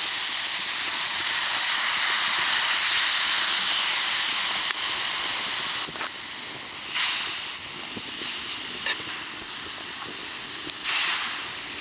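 Sukiyaki sizzling in an iron pot: a steady, loud sizzle for about the first half, then quieter, with a few short louder surges of sizzle.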